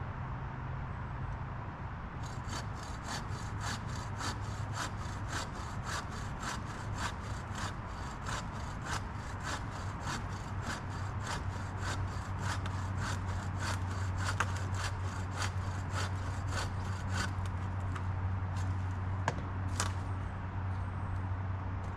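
Hand saw cutting through downed wood in steady back-and-forth strokes, about two or three a second, starting about two seconds in. The strokes stop near the end, leaving a few scattered knocks.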